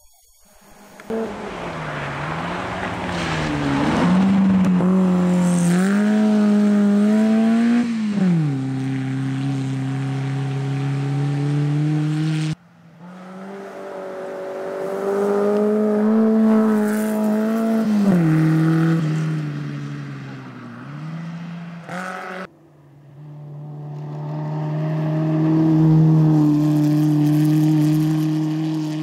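Fiat 850 Coupé rally car's engine revving hard through the gears, its pitch climbing and dropping again and again as it shifts. The sound breaks off abruptly twice.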